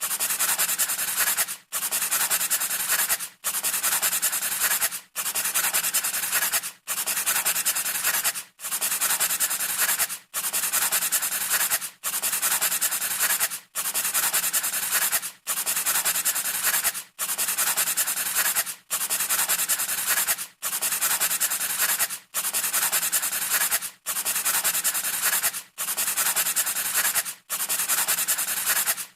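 Pencil scratching on paper: a scratchy rubbing noise in even strokes about a second and a half long, each broken by a brief gap, repeating steadily like a looped sound effect.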